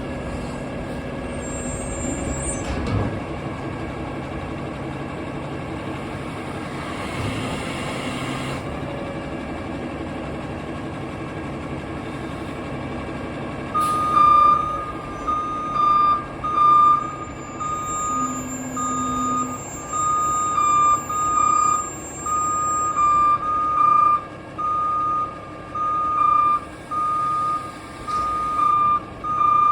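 Garbage truck engine running steadily, with a brief hiss about seven seconds in. About halfway through, the truck's reversing alarm starts beeping, roughly once a second.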